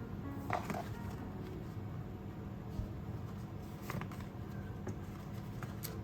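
A few faint, light clicks and knocks over a steady low hum, from small objects being handled.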